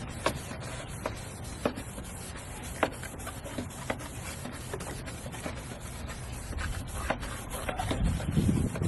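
Hand wet-sanding of a yellowed plastic headlight lens with an abrasive sanding pad, a steady scraping rub in quick back-and-forth strokes across the lens, with a few sharp clicks. Near the end a low rumble rises.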